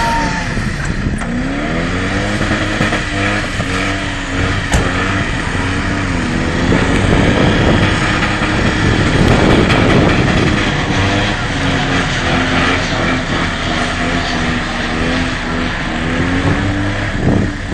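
Holden Commodore VT's V8 engine revving hard through a burnout, its pitch rising and falling again and again over the rush of the rear tyres spinning.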